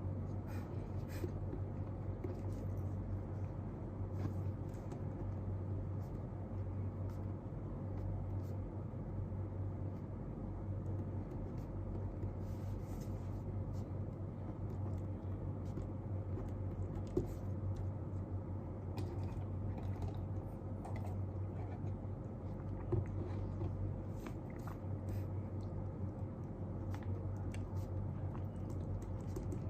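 Steady low room hum with scattered faint scratches and taps of desk work, such as pen on paper, and two slightly louder small knocks.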